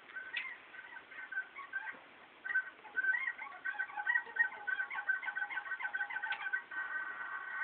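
Bridgestone Roadman bicycle's drivetrain making a strange squeaking noise: rapid, irregular high chirps that get denser about two and a half seconds in. Its owner can't tell whether it comes from the chain or the gears.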